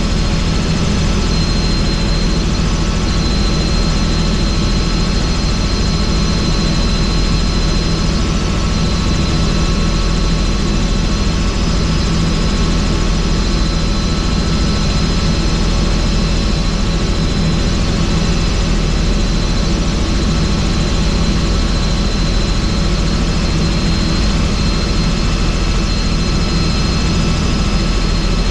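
Helicopter in flight, heard from inside the open doors-off cabin: steady, loud rotor and engine noise with a thin high whine that fades in and out.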